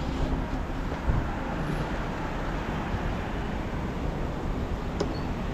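Steady low rumble and noise of a vehicle in motion, with a brief knock about a second in.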